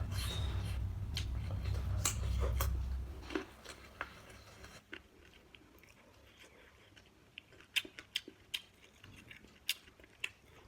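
A person chewing and biting food close to the microphone. A low rumble with clicks for about the first three seconds gives way to quieter mouth sounds and a run of sharp clicks near the end.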